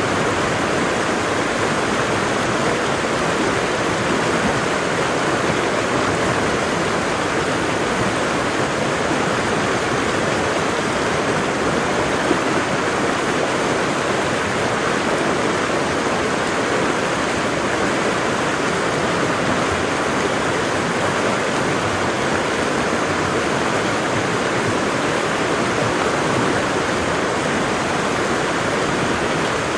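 Waterfall: water falling and splashing in a steady, even rush with no change throughout.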